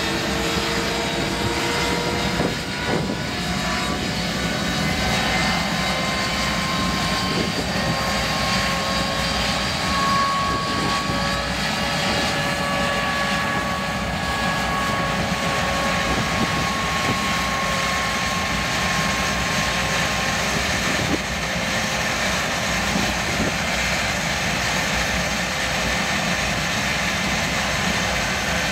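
MiG-21's R11F-300 turbojet, fitted to an IZh Jupiter-5 motorcycle, running with a steady roar and a whine that rises slowly in pitch over the first several seconds, then holds.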